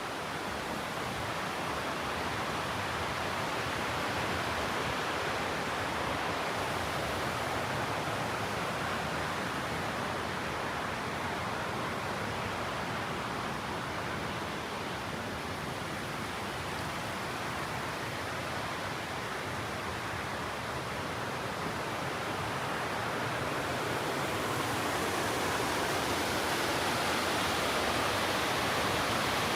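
Steady rushing of falling or flowing water, growing a little louder near the end.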